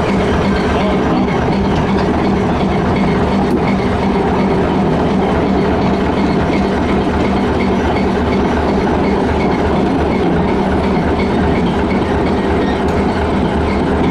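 A train running on rails: a steady, loud mix of rolling noise and low hum, without pause.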